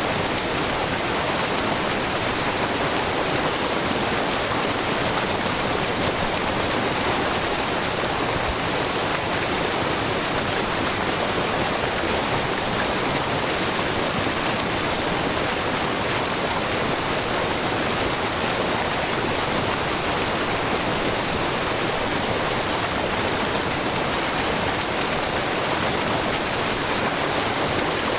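Wide, low waterfall with many thin streams of spring water falling over a rock face into a pool: a steady, even rush of falling and splashing water.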